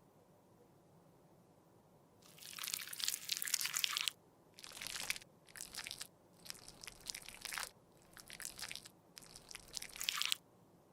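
Makeup being crushed and scraped with a tool: crisp crunching scrapes in six separate bursts, the first and longest lasting nearly two seconds.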